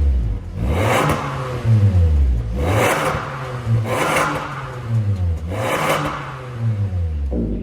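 Toyota Corolla Altis's 2ZR-FE four-cylinder engine revved again and again through an MS-R valved cat-back exhaust. The pitch climbs and drops about five or six times, roughly once a second.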